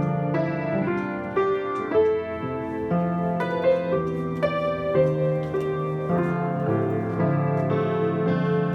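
Piano playing a slow passage of sustained notes and chords.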